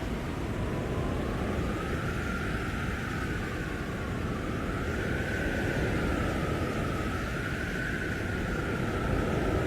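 Storm wind howling in a blizzard: a whistling howl that slowly rises and falls in pitch over a steady rushing roar, with low rumbling gusts buffeting the microphone.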